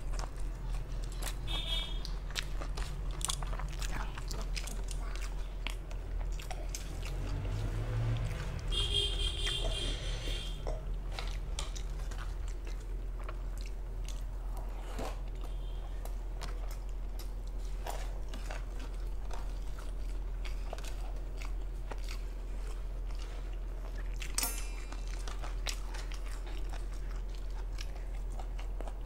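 Close-up chewing and wet mouth sounds of a person eating rice mixed with mutton lung curry by hand, many small clicks and smacks, over a steady low hum. A brief high-pitched sound comes about nine seconds in.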